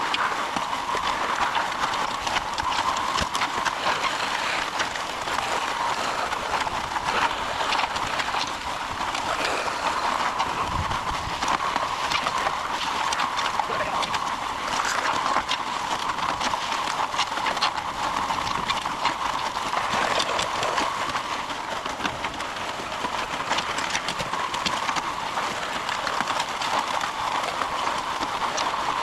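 MudMixer concrete mixer running during the pour, a steady mechanical clatter with a constant stream of rapid knocks.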